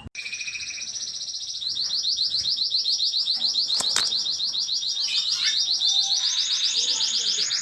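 Small pet cage birds chirping in a fast, unbroken run of high repeated notes. A second, lower bird voice joins about five seconds in.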